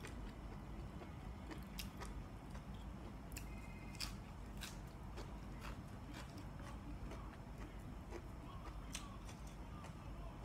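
A person chewing and biting with their mouth open to the microphone, scattered small crisp clicks and crunches, eating fresh leafy greens with a braised chicken-liver dish.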